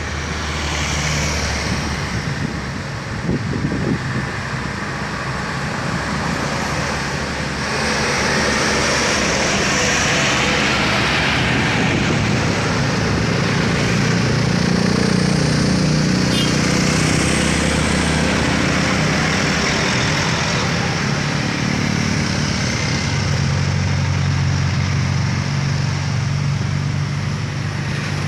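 Heavily loaded truck's diesel engine running hard under full throttle, its steady note growing louder to a peak about halfway through as the truck comes past, then easing a little.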